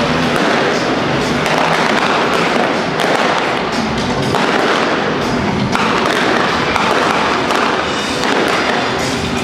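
Rapid crackling and popping of pyrotechnic effects, with loud music underneath.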